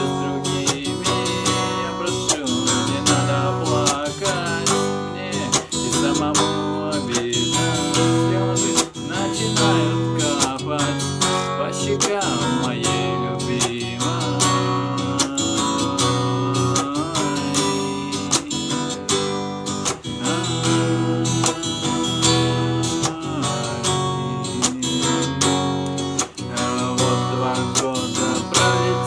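Instrumental passage of a song, carried by a steadily strummed acoustic guitar.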